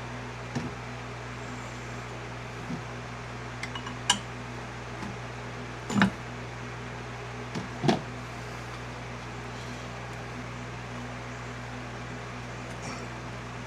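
Scattered metallic clinks and knocks of hand tools on engine parts, the two loudest about six and eight seconds in, over a steady low hum.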